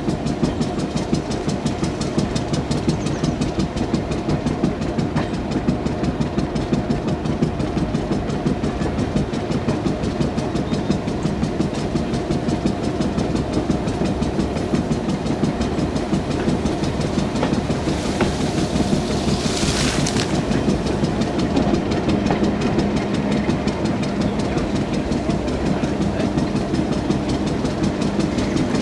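A slow-moving 4-CEP slam-door electric multiple unit running along the track, heard through an open window: a steady low drone with the wheels clicking over the rail joints. There is a brief hiss about two-thirds of the way through.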